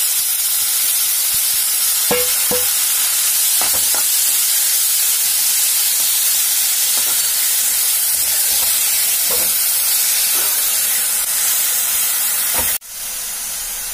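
Freshly added grated radish frying in hot mustard oil in a steel kadai: a steady sizzle, with a few clicks and scrapes from the steel spatula against the pan. About a second before the end the sizzle drops suddenly and carries on quieter.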